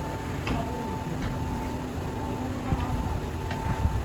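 Workshop machinery running with a steady whine, broken by sharp ticks about once a second.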